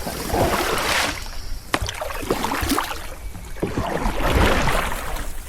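Water splashing and sloshing around a kayak hull, swelling about a second in and again around four seconds in, with a few sharp knocks.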